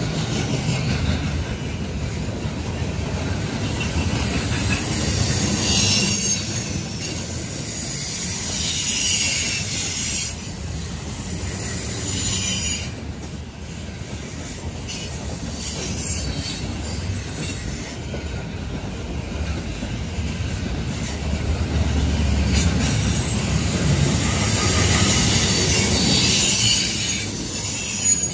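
Covered hopper cars of a freight grain train rolling past, with a steady rumble of steel wheels on rail and high-pitched wheel squeal that swells and fades several times, loudest a few seconds in and again near the end.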